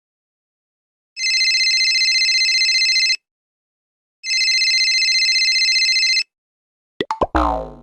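Telephone ringing twice, each ring about two seconds long with a fast trill. Near the end, a few quick clicks and a short sound effect that drops in pitch.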